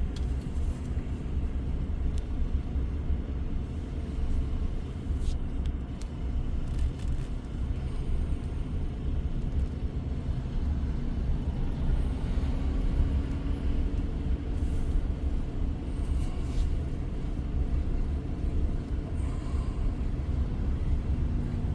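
Diesel engine of a heavy-haul semi truck running steadily, with a few faint clicks about five to seven seconds in.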